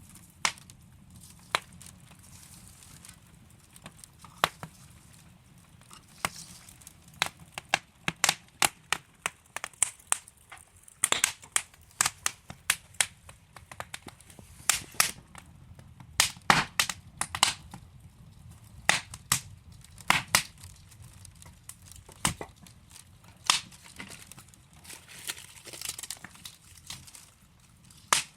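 Wood fire crackling in a fireplace: burning logs give irregular sharp pops and snaps over a low, steady rumble of flame, with the pops coming thickest in the middle.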